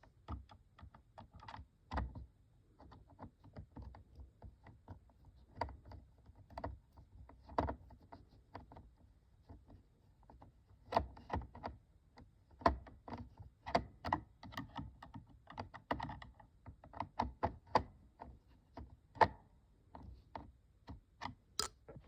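Irregular light clicks and knocks of the plastic Ocean Wonders toy aquarium being handled. The clicks come more thickly in the second half, with a sharp high click near the end.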